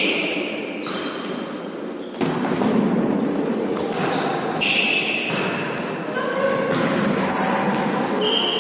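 A volleyball being struck and bouncing on a hall floor during a volley tennis rally: several separate thuds a second or so apart, with players' voices.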